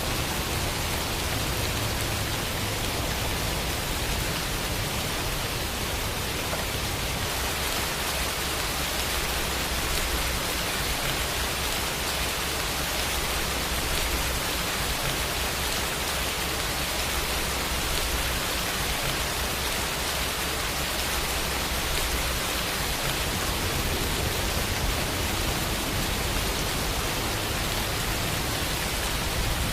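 Steady rain falling: a dense, even hiss of drops with faint scattered patters on surfaces.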